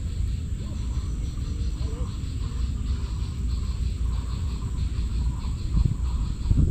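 Insects chirping steadily in a fast even pulse, over a continuous low rumble.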